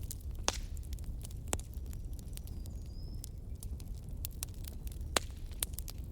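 Wood fire burning in a fireplace, crackling: scattered sharp snaps and pops over a steady low rumble, with louder pops about half a second, a second and a half, and five seconds in.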